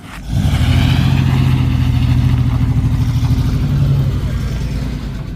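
Pickup truck engine revving hard, starting suddenly and held at high revs for about four seconds, then easing off near the end.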